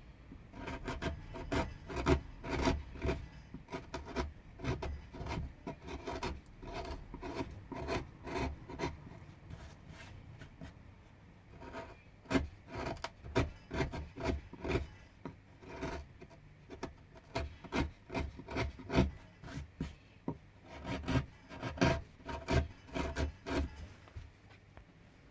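Hand carving tool cutting pine wood in short, irregular scraping strokes, a couple a second, with a lull about ten seconds in.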